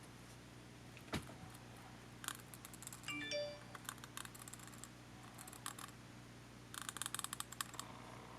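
Small, scattered clicks and taps of small parts and hand tools being handled while a camcorder is taken apart, with a few brief ringing tones about three seconds in and a quick flurry of rapid clicks near the end.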